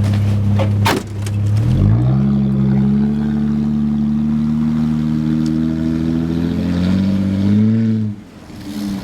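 A car engine idling, a sharp knock about a second in, then the engine revs up and runs steadily at higher speed before dropping away near the end.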